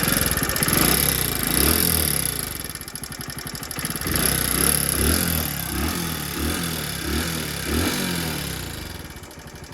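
Hero HF Deluxe's single-cylinder engine running and revved in a series of short blips from about four seconds in, with a bad, rough mechanical noise. The mechanic puts the noise down to loose tappets after the engine oil was run too long.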